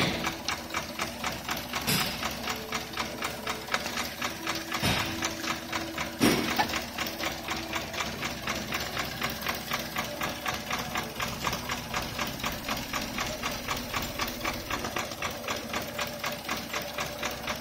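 Toyota 1SZ-FE 1.0-litre four-cylinder petrol engine idling, with a quick, even ticking from the valvetrain and injectors. A few louder knocks stand out about 2, 5 and 6 seconds in.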